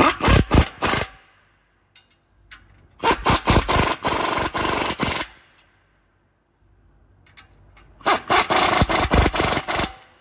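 Ratchet with a 15 mm socket run in three bursts of rapid rasping clicks, tightening the exhaust's DPF-side clamp bolt down until it is tight.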